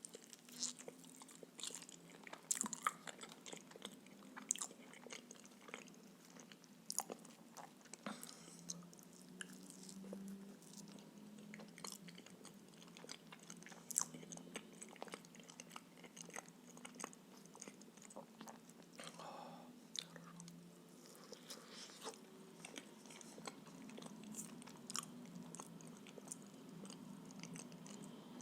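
Close-miked chewing and biting of pea-filled blini, with many short wet mouth clicks throughout.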